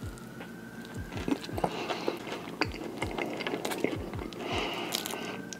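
Wet, sloppy biting and chewing of a Big Mac drenched in Big Mac sauce, with many small clicks and smacks. A low thudding beat about twice a second runs underneath.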